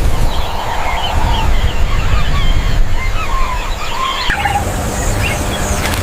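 Several birds chirping and calling in short, scattered notes over a steady low rumble.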